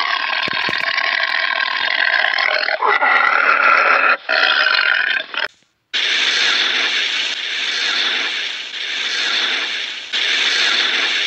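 A pitched animal call, held with short breaks for about five seconds, then a steady hiss after a brief gap.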